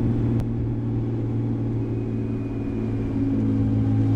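Straight-piped RB20 straight-six of an R32 Skyline GTST droning steadily while cruising, heard from inside the car, rising slightly in pitch about three seconds in. A single sharp click about half a second in.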